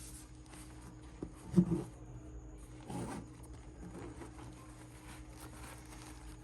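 Handling sounds as the Fly More Combo bag is opened and its contents are reached into: soft rustling, with a short knock about a second and a half in and another about three seconds in, over a low steady hum.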